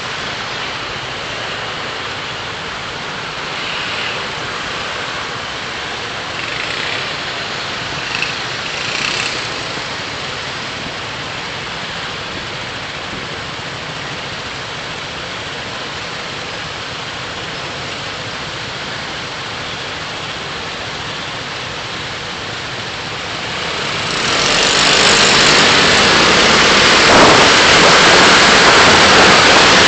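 Road and traffic noise heard from a driving car: a steady hiss of tyres and passing vehicles, which grows much louder about 24 seconds in and stays loud.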